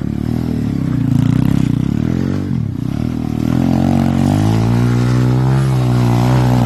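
125 cc pit bike engine running and being revved, its pitch dipping briefly about two and a half seconds in, then climbing and holding high near the end.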